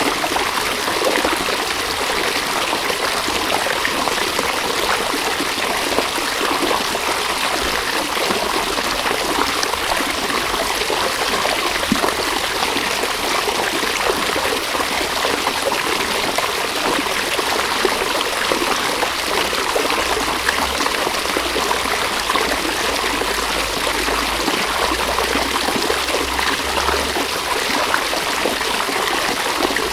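River water flowing and babbling steadily over stones, an even rushing and trickling without pause.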